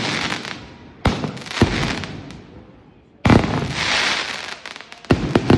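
Aerial fireworks bursting overhead: about half a dozen sharp bangs, each fading out in a long crackling hiss. The loudest come a little past three seconds and as a quick pair near the end.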